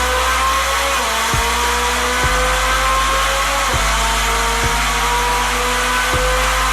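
Car engine and exhaust pulling under acceleration with a whining, climbing pitch that dips briefly about a second in and again near four seconds in, then climbs again.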